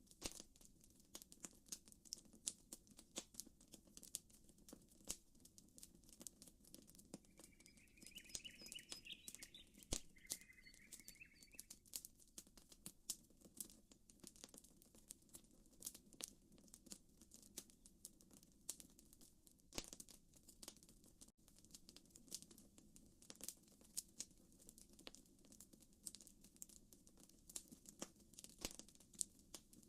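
Campfire crackling: wood popping and snapping in a steady scatter of sharp clicks. A bird chirps a quick run of notes about a quarter of the way in.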